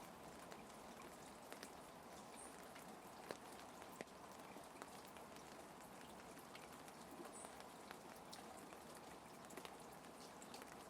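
Faint, steady rain with scattered light drop ticks.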